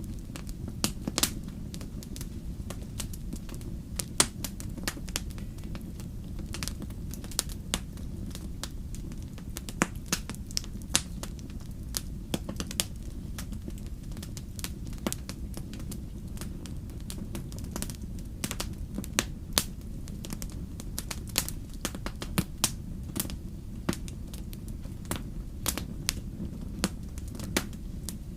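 Wood fire crackling: irregular sharp pops and snaps, several a second and some louder than others, over a steady low rumble.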